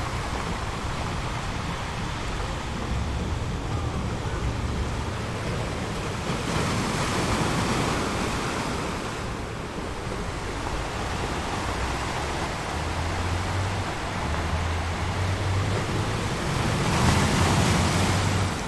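Waves washing in as a steady rushing noise, swelling twice: once a little past the middle and again, loudest, near the end.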